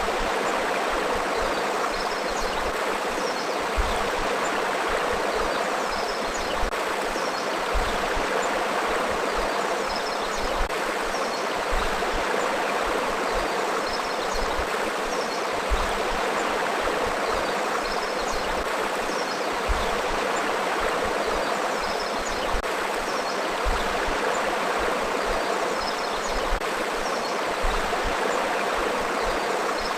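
Forest river flowing steadily, a continuous even rush of water over its bed.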